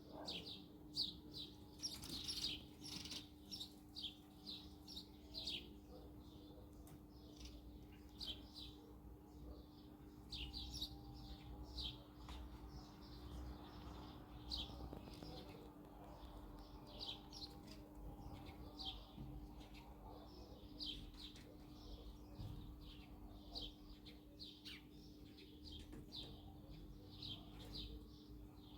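Small birds chirping: short, high, falling chirps repeated over and over, often several in quick succession.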